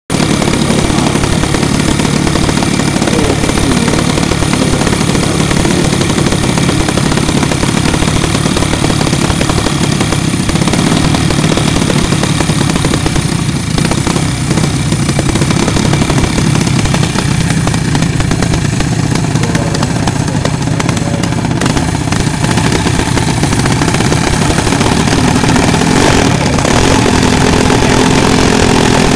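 Small minibike engines running loudly and continuously.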